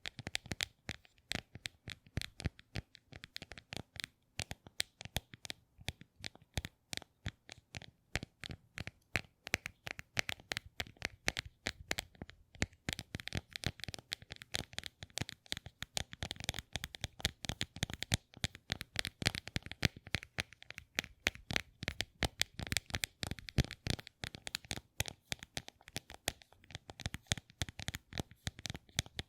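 Close-up ASMR trigger sounds: a fast, irregular stream of small, crisp clicks and crackles from objects handled near the microphone.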